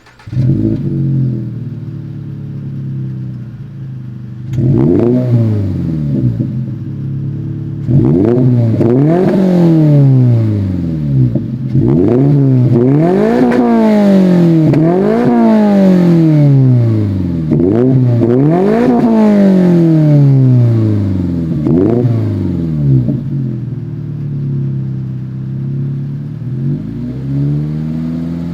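Subaru FA24 flat-four running through a muffler-delete axleback exhaust, idling, then revved repeatedly in neutral. There is a short blip about five seconds in, then about six rising-and-falling revs between about eight and twenty-two seconds before it settles back to a steady idle.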